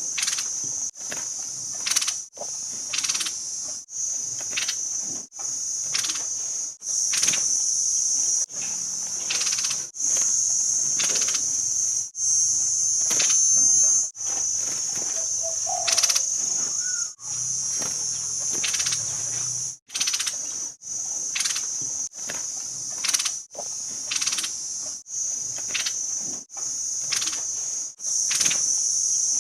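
A steady high-pitched insect drone broken by short gaps every second or so, with brief chirps that fit the song of a caged orange-headed thrush being played as a training recording.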